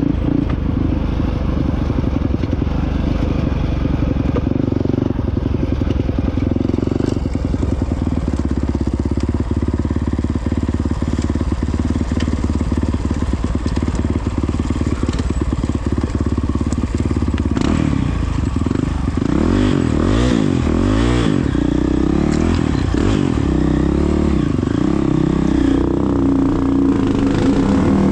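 2022 Honda CRF450X's single-cylinder four-stroke engine running while under way, with many short clicks and clatter over it through the middle stretch. In the second half the engine pitch rises and falls over and over as the throttle is worked.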